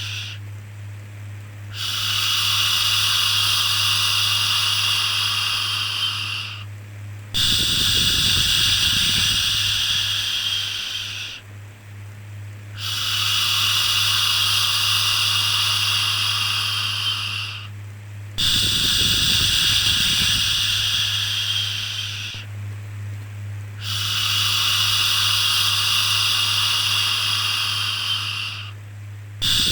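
A repeating 'shhh' shushing sound for soothing a baby: long hisses of about four and a half seconds with a short break between each, five times over. A steady low hum runs beneath.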